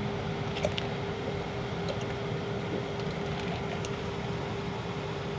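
Steady road and tyre noise inside a moving Tesla's cabin, with a constant faint hum and a few light ticks.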